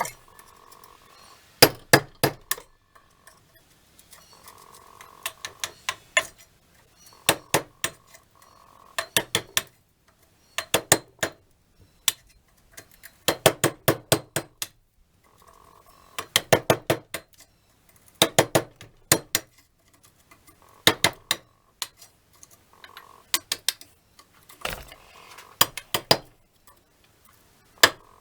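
Metal being struck with a hammer in short bursts of several quick, ringing strikes, about a dozen bursts with brief pauses between them.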